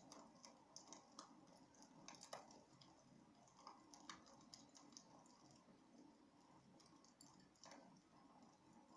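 Faint crackling of burning wood in a fireplace: irregular small pops and snaps over a soft low hiss.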